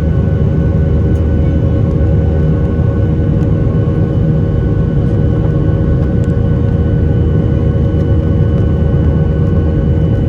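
Cabin noise of a Boeing 737-800 with its CFM56 jet engines running: a loud, steady low rumble with a few steady whining tones over it.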